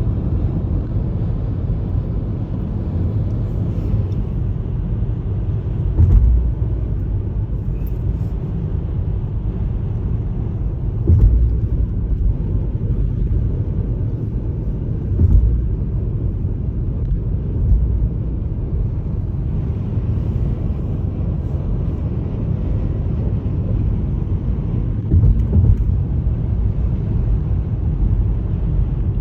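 Steady low rumble of a moving road vehicle, with a few brief louder bumps every few seconds.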